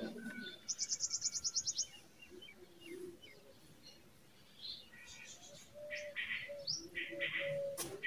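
Birds chirping and calling, with a rapid high trill of about a dozen quick notes about a second in and shorter chirps later on.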